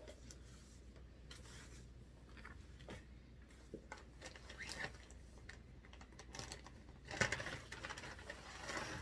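Faint, scattered light clicks and rustles, like small objects being handled, growing busier and a little louder over the last couple of seconds.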